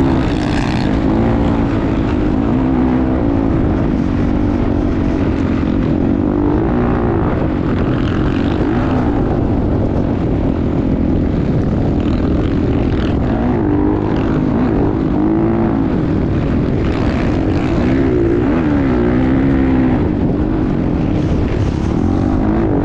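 Motocross bike engine running hard, its pitch repeatedly rising and falling as the throttle opens and closes, over a steady low rumble.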